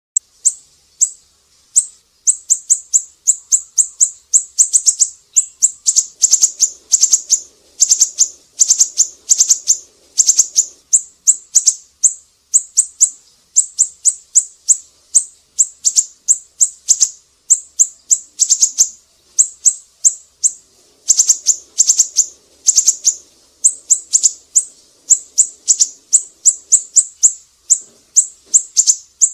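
Siri-siri bird singing: sharp, high-pitched chirps delivered in fast runs of several notes, with hardly a pause between runs.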